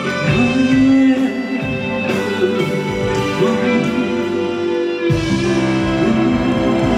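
Live band music with guitar to the fore; a heavier bass comes in about five seconds in.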